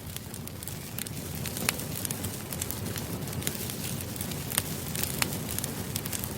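Campfire crackling: a steady low rush of burning wood with scattered sharp pops and snaps, a few of them louder than the rest.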